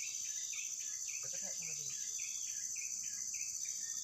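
Steady high-pitched drone of insects, with a short, falling chirp repeating about twice a second over it.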